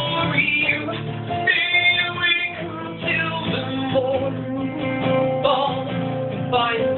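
Live band music led by guitar, playing an instrumental stretch between sung lines.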